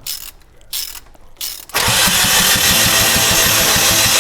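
Short bursts of noise, then, about two seconds in, a rebuilt Datsun pickup's engine is cranked over on the starter with a loud, fast, even churning.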